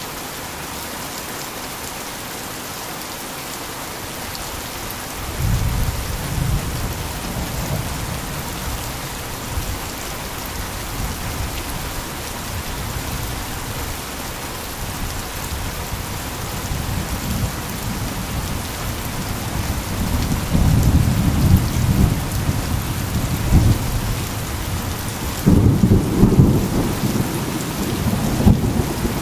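Steady heavy rain with thunder: a deep rumble breaks in about five seconds in and rolls on, swelling again near the end.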